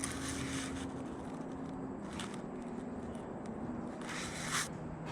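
Three brief soft scrapes or rustles, about a second in, around two seconds in and near the end, over a steady low hum.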